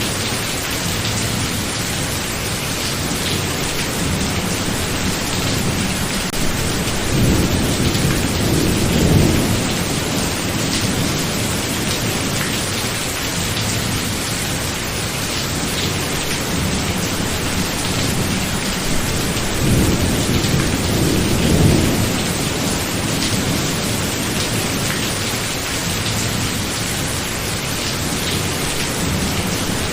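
Steady heavy rain with thunder rumbling low twice, swelling about seven seconds in and again around twenty seconds in.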